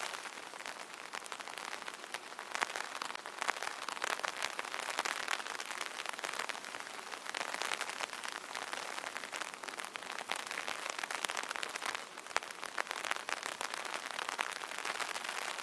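Light rain pattering on an umbrella canopy: a dense, steady patter of small drop hits that swells and eases every few seconds.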